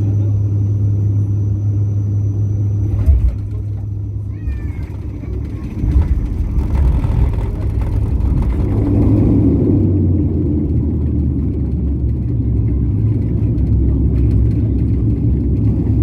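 Steady low rumble of an airliner after a night landing, its engine and rolling noise heard inside the cabin, with a brief faint high warble about four and a half seconds in.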